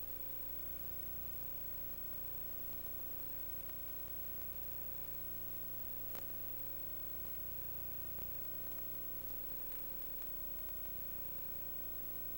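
Steady electrical hum and hiss, with a single faint click about six seconds in.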